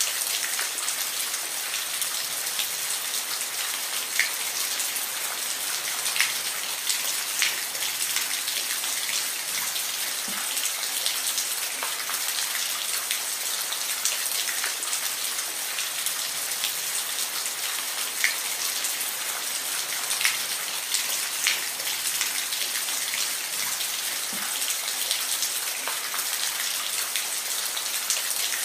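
Steady rain, a dense even hiss with individual drops ticking sharply here and there.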